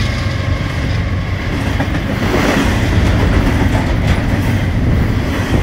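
Intermodal freight train rolling past: a steady rumble of wheels on rail.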